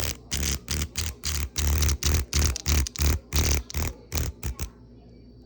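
Cicada giving harsh buzzing distress squawks in about a dozen bursts, longer in the middle and shorter and quicker near the end, as it is held captive.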